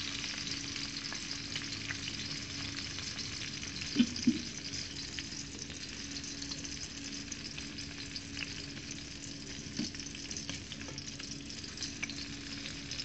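Green capsicum pieces sizzling in hot oil in a frying pan while a utensil stirs and scoops them, scraping and clicking against the pan, with two louder knocks about four seconds in.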